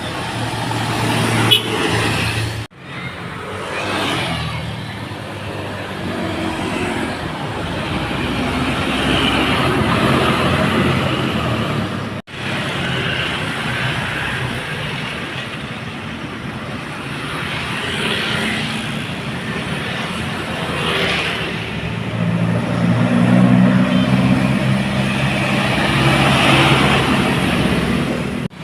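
Heavily loaded dump trucks passing, their diesel engines running under load with tyre noise on a wet road, the sound swelling and fading as each goes by. The sound cuts out abruptly twice, once near the start and once about twelve seconds in.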